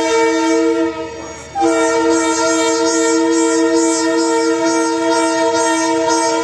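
GE U18C diesel locomotive's horn sounding a chord of several steady notes: a blast of about a second, a short break, then a long blast held for nearly five seconds.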